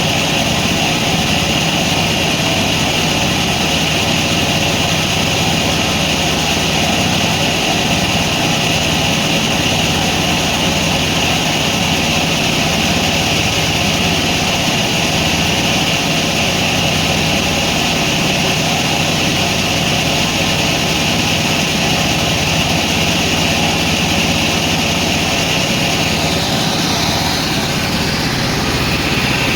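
Sawmill machinery running steadily, a loud continuous mechanical noise with a high whine that fades near the end.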